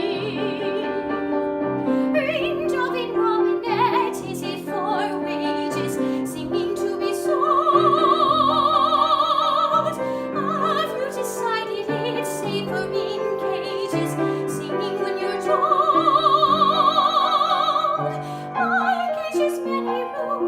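Classically trained soprano singing a musical-theatre song over piano accompaniment, holding two long high notes with wide vibrato, one about a third of the way in and one near the end.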